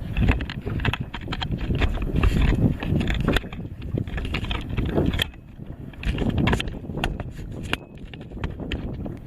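Handling noise from a camera being repositioned on a kayak: irregular knocks, clicks and rubbing on the microphone over a low rumble.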